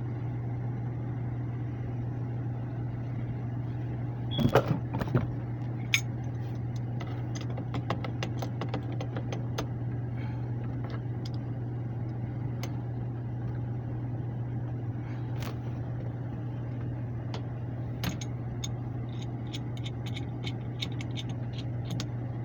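Lennox air handler's blower running with a steady low hum, the fan kept on to defrost an iced-up coil, with scattered metallic clicks and knocks of tools being handled, a small cluster of them about four seconds in.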